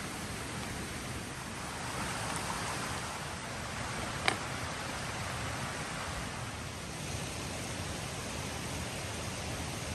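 Steady rushing water noise, with one sharp click about four seconds in.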